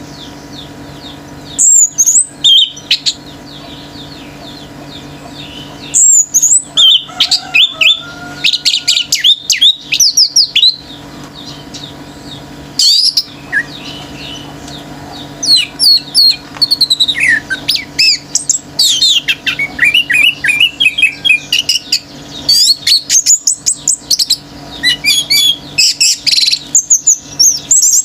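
Orange-headed thrush singing in loud bouts of rapid, varied, whistled and chattering notes, with short pauses between bouts, over a faint steady low hum.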